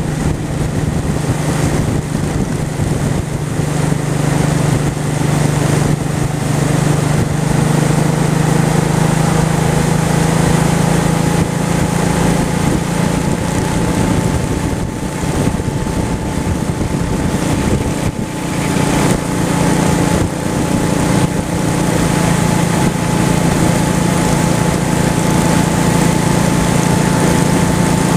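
Honda Shadow V-twin motorcycle engine running at a steady cruising pace, with rushing wind and road noise. The engine eases off briefly twice near the middle.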